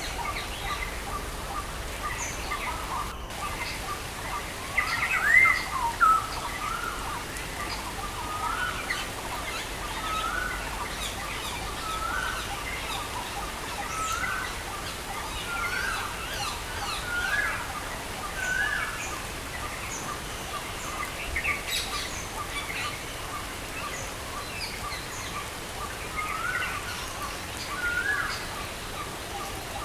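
Songbirds chirping over the steady hiss of rain. One bird repeats a short rising note about every second and a half for a stretch, with a louder call shortly before.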